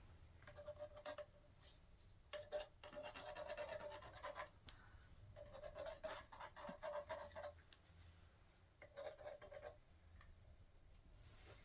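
Faint rhythmic scraping, in four bursts of quick strokes with short pauses between them.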